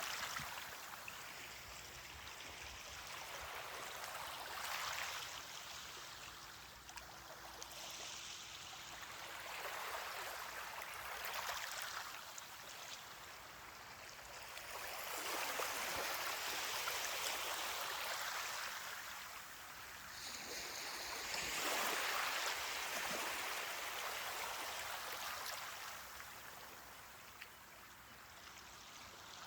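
Ocean waves washing onto a beach, the surf rising and falling in slow surges every five or six seconds.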